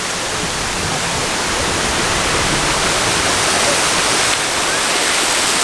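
Steady rushing of a waterfall and river, a dense even hiss of falling water that grows slowly louder.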